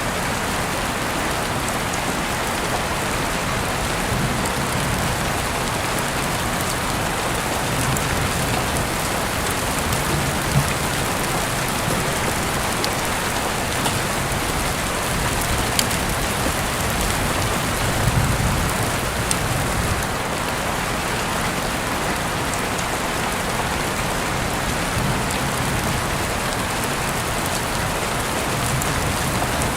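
Steady rain falling as an even hiss, with scattered sharp ticks and a few soft low rumbles that swell and fade.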